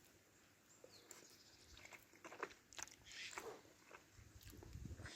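A person eating: faint, scattered crunching with small clicks.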